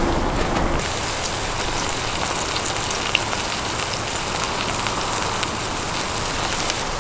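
Korean pancake (jeon) batter frying in a pan: a steady sizzle with scattered small crackles and pops.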